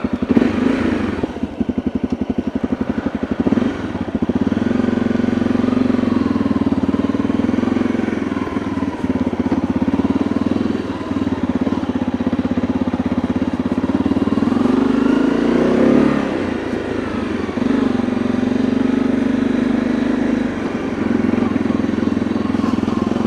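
Honda CRF250L's single-cylinder four-stroke engine pulling away with slow, distinct firing pulses, then running steadily at road speed. The revs rise and drop once about two-thirds of the way through.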